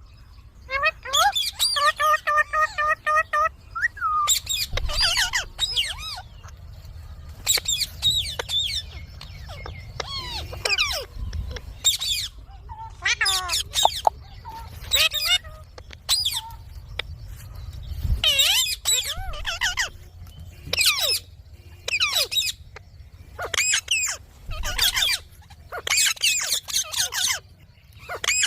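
Indian ringneck parrot chattering and squawking in many short bursts, opening with a quick run of repeated even notes.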